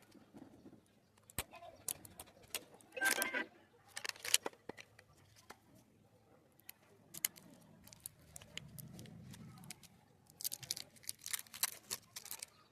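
Handling of a sketch eraser's packaging while unboxing it: scattered clicks and taps, with crinkling rustle twice, about three seconds in and again near the end.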